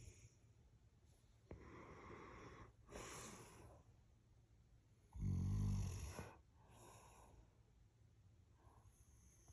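Chocolate Labrador retriever snoring in its sleep: noisy breaths in and out, then one loud, low snore about five seconds in, followed by a fainter breath.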